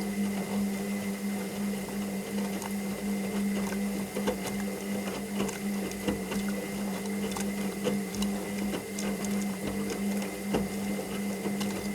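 Washing machine running: a steady motor hum with a thin high whine above it, under many small irregular clicks and knocks.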